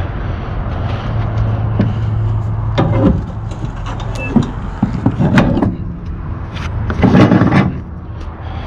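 Truck engine idling steadily, with clanks and rattles of flatbed cargo-strap hardware being released at three points, the loudest near the end.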